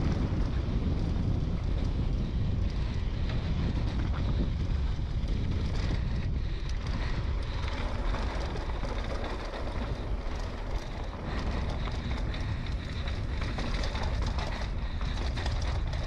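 Wind buffeting the microphone: a steady rumbling noise, heaviest in the low end.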